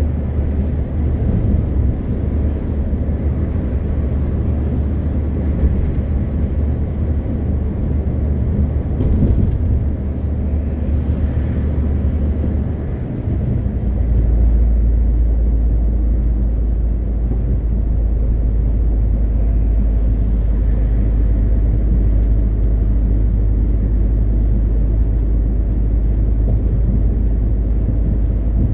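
MAN TGX 520 truck under way, its 12.4-litre straight-six diesel and road noise making a steady low drone. About halfway through there is a brief dip, after which the low drone settles a step louder and deeper.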